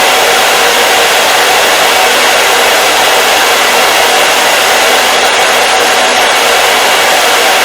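Hair dryer running steadily, a loud, even rush of air with a faint motor hum and no change in speed.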